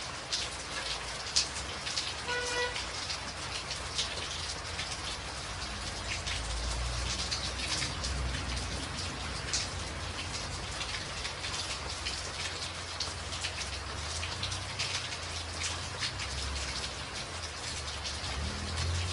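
Rain falling on a tin roof: a steady hiss with many sharp individual drop hits. A low rumble joins underneath about six seconds in, and a brief faint pitched tone sounds about two and a half seconds in.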